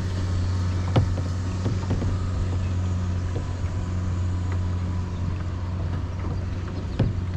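Steady low drone of a motorboat engine running out on the water, with two sharp knocks, about a second in and near the end.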